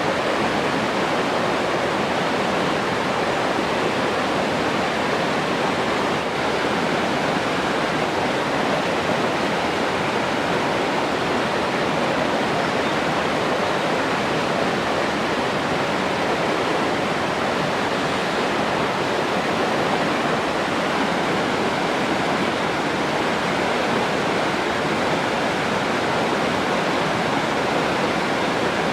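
Steady rushing water, an even hiss and rush that never changes.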